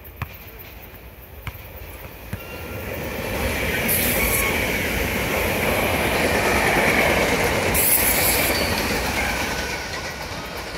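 A SEPTA Regional Rail electric multiple-unit commuter train passing close by: wheel and rail noise builds, is loudest through the middle and fades near the end. A steady high whine runs through the pass, with two short hissing bursts about four and eight seconds in.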